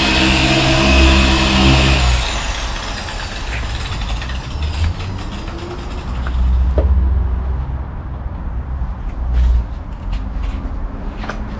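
A motor-driven machine, most likely one of the car-detailing tools, runs with a steady whine and hum, then switches off about two seconds in and its whine falls in pitch as it winds down. After that there is a lower rumble with a few clicks and knocks.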